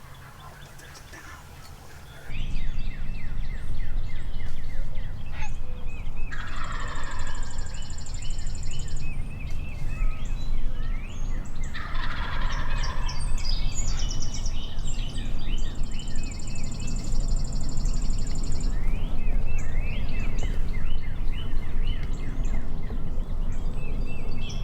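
Wild turkey toms gobbling, with loud bursts about 6, 12 and 24 seconds in, over a constant chatter of smaller bird chirps and a low rumble.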